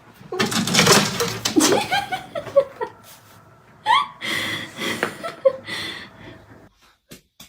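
People laughing in bursts, with a few spoken sounds, stopping shortly before the end.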